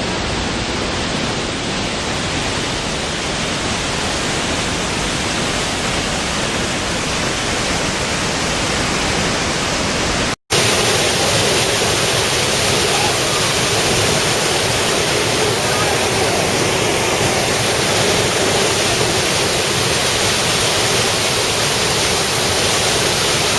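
Waterfall's steady rush of falling water. About ten seconds in, the sound drops out for an instant and comes back as a brighter, hissier rush.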